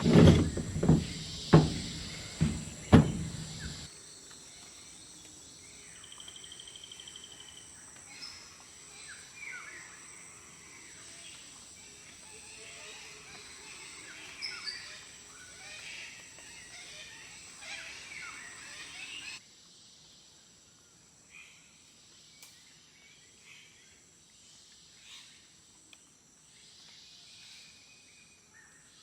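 Rainforest ambience: many birds calling and chirping over a bed of insects, with a short buzzing insect trill a few seconds in. It opens with a few loud low beats. After an abrupt cut about two-thirds of the way through, the ambience is quieter with scattered chirps.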